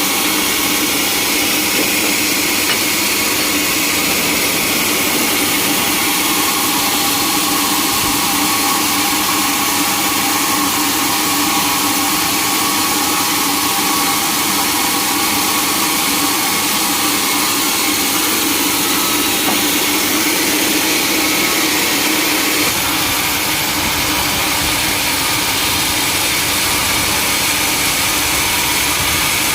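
Sawmill machinery running steadily: a loud, constant mechanical drone with steady whining tones. It drops slightly in level about 23 seconds in.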